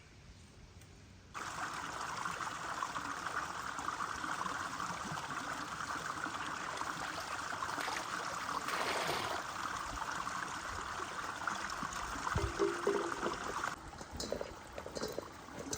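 Water trickling and running steadily, starting suddenly about a second in and cutting off suddenly near the end.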